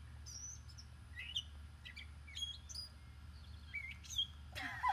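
Background birds chirping in short, scattered calls, over a low steady hum.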